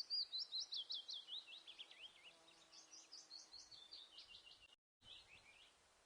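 A small songbird chirping in a fast series of short, high notes, about five a second, loudest at the start and fading. The sound cuts out completely for a moment near the end, then a few more chirps follow.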